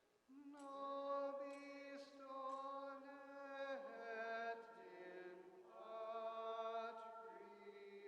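Slow sacred chant or hymn sung in long, held notes that step from one pitch to the next, with the words' consonants breaking between notes.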